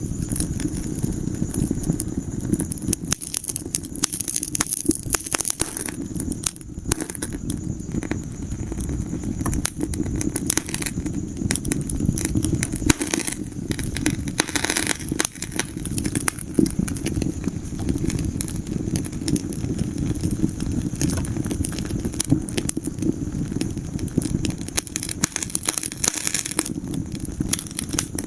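Wood fire burning in a fireplace, with constant irregular crackles and pops over a steady low rumble of the flames.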